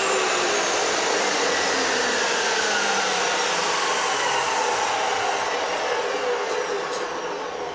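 Abrasive cut-off wheel cutting through steel exhaust pipe: a steady, loud grinding hiss with a whine that slowly falls in pitch as the wheel works through the cut.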